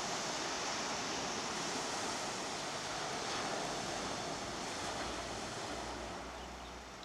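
Ocean surf washing onto the beach: a steady rushing noise that eases slightly near the end.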